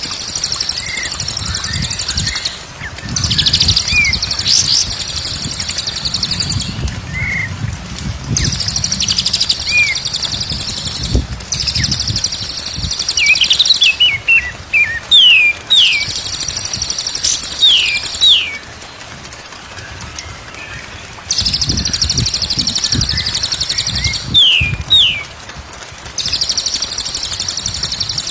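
Songbirds singing in a bird-song training recording: a dense, high, buzzing trill repeats in stretches of about two to three seconds with short breaks, over quick falling chirps, with a low rumble underneath.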